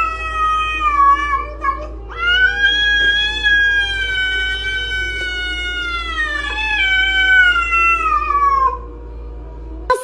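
Domestic cat yowling: a short drawn-out call, then one very long wailing call lasting about seven seconds that slowly sinks in pitch, over a steady low hum.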